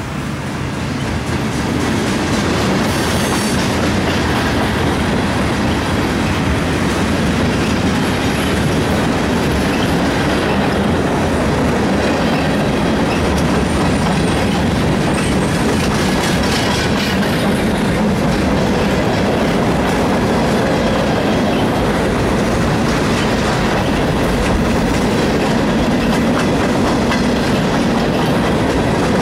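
Union Pacific freight cars rolling past close by: a steady rumble of steel wheels on the rails, with the clickety-clack of wheels over rail joints. The sound builds over the first second or two, then holds steady.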